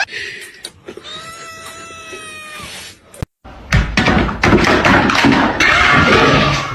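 A cat's long, drawn-out meow holding one pitch for about two seconds. After a brief cut it gives way to a louder, busy stretch of noise with a few sharp knocks.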